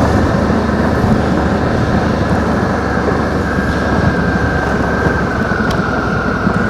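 Suzuki V-Strom adventure motorcycle being ridden along a dirt track: a steady, even mix of engine and riding noise, with a faint thin whine coming in about halfway through.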